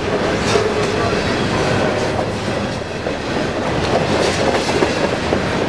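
Freight train cars rolling past at close range: a steady rumble of wheels on rail with scattered clicks as the wheels cross rail joints.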